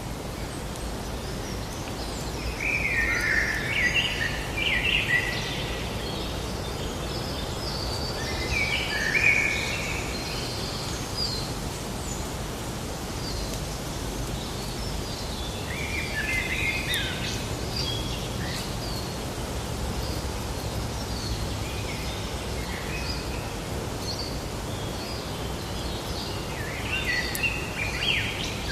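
Forest ambience: songbirds singing in short bursts of chirps and warbling phrases, four main bursts spread through, with scattered higher chirps in between, over a steady low background noise.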